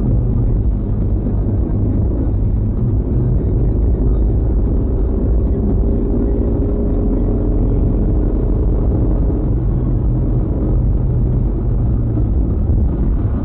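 Steady low road and engine rumble of a moving car, recorded by a dashcam inside the car, with a faint whine in the middle that slowly drops in pitch.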